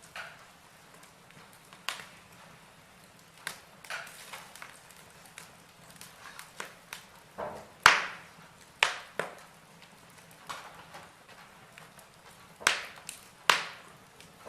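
Logs burning in a fireplace, crackling: irregular sharp pops and snaps over a faint hiss, the loudest pop about eight seconds in.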